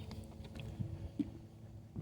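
Footsteps on a wooden boardwalk: soft, uneven low thumps of walking.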